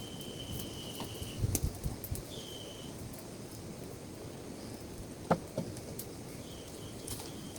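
A steady, high-pitched insect call that sounds in three spells of about a second each, over a low, even background noise. Sharp clicks are heard here and there, with one louder knock about five seconds in.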